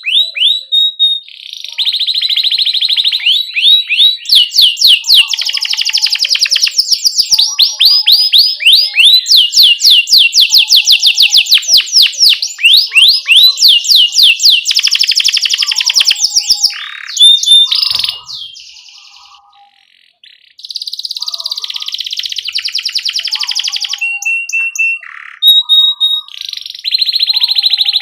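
Domestic canary singing long rolling trills of fast repeated rising notes, mixed with short chirps, with a break of about two seconds past the middle.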